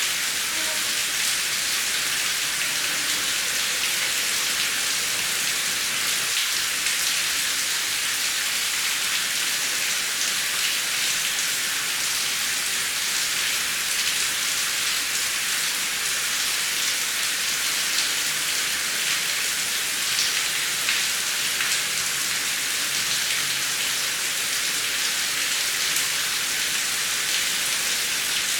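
Heavy rain falling steadily, a constant hiss dotted with the ticks of individual drops striking a surface.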